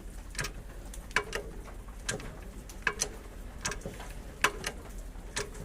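Short, sharp metallic knocks, about one every 0.8 seconds, each with a brief ring, as a new wheel bearing is pressed into the hub.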